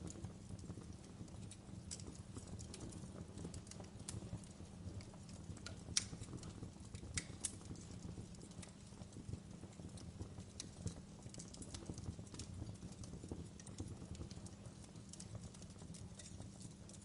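Wood fire burning in a fireplace, crackling with scattered sharp pops over a steady low rumble; a louder pop comes about six seconds in and another a second or so later.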